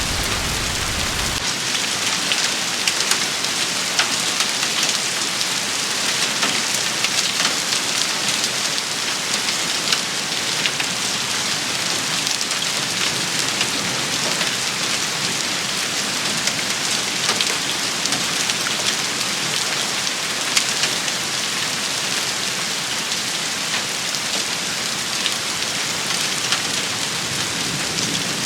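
Steady rain shower: a dense, even hiss of rain falling, with many sharp drop hits scattered through it. A low rumble underneath cuts off suddenly about a second and a half in.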